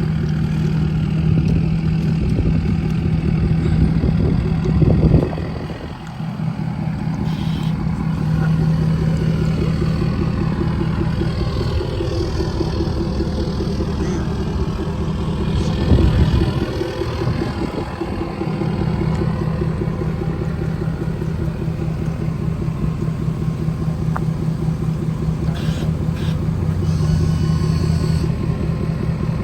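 Apocalypse custom truck's engine running, a steady low drone, as the truck pulls up. It briefly drops about five seconds in and surges louder around sixteen seconds.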